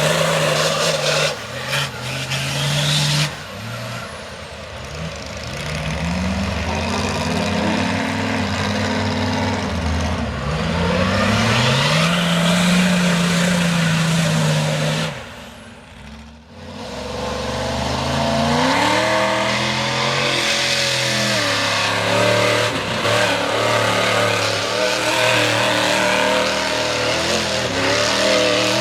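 Mega truck engine revving hard in a mud bog, its pitch climbing and falling again and again. The engine note drops away briefly about halfway through, then revs back up.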